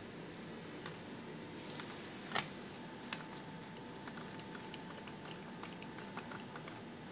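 Faint small clicks and taps of tweezers and fingers handling a laptop's plastic screen bezel while the small screw-cover squares are pressed back on, with one sharper click about two and a half seconds in. A faint steady high tone starts about three seconds in.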